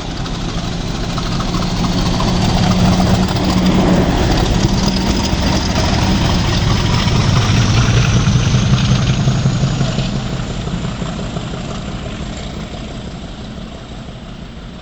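British Rail Class 50 diesel locomotive 50007, running light engine, passing by: its English Electric V16 diesel grows louder, then fades away, the engine note dropping in pitch as it goes past.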